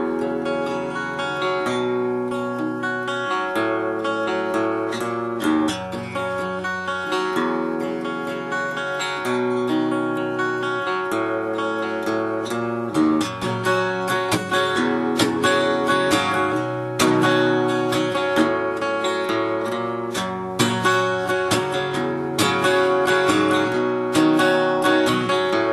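Gibson L5 hollow-body archtop guitar played unplugged, with chords strummed and picked and ringing one into the next.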